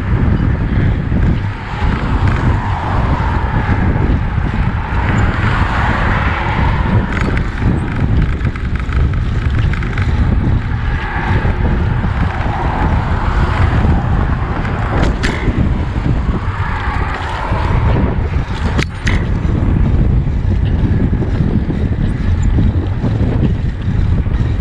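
Wind buffeting a bicycle-mounted microphone while riding, over steady road and passing-traffic noise. Two sharp clicks come a little past halfway.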